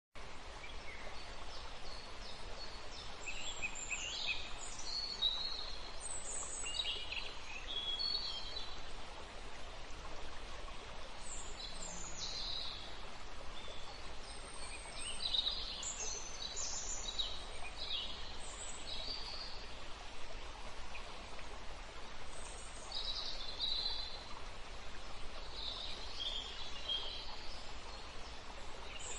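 Birds chirping, with many short, sweeping calls coming irregularly over a steady background hiss.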